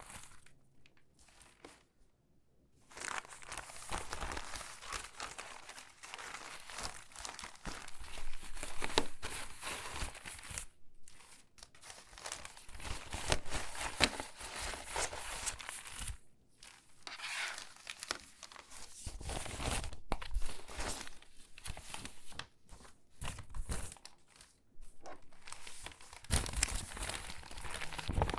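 Stiff, crinkly water-damaged magazine pages being handled and sorted by hand, crackling and rustling in irregular bursts with a few short pauses.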